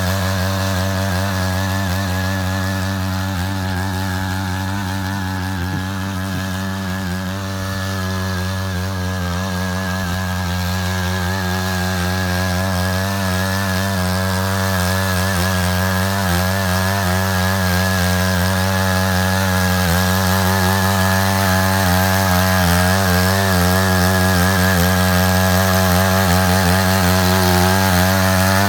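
Matsuda walk-behind power tiller's small engine running steadily under load as it digs a ditch, its tone wavering a little and growing slightly louder in the second half.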